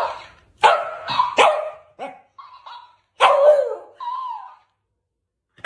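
A small dog barking in short bursts: three sharp barks in quick succession, a few quieter yips, then a louder bark and a short one, with a pause before another bark at the end.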